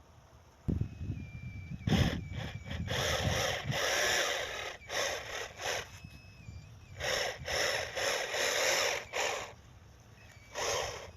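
Small electric motor and gears of a homemade RC tractor running in repeated bursts with short pauses, a gritty grinding whir with a faint high whine, after a single thump just under a second in.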